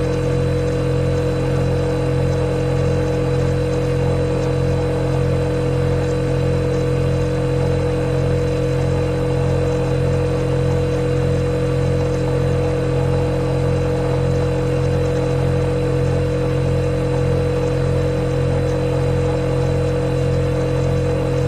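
Refrigerator running with a steady, unbroken hum: a few held tones over a low drone that pulses slightly.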